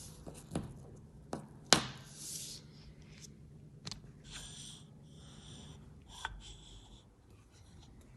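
Hands handling a piston: several sharp knocks and clicks, the loudest nearly two seconds in, with rustling and scraping between them.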